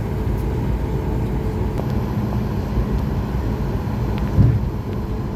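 Cabin noise of a Boeing 737 MAX 8-200 airliner rolling on the runway after landing: a steady low rumble from the engines and wheels, with one low thump about four and a half seconds in.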